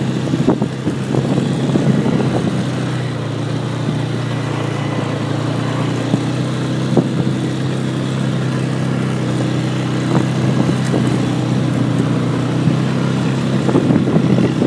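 ATV engine running at a steady speed, with the knocks and rattles of the machine jolting over rough ground.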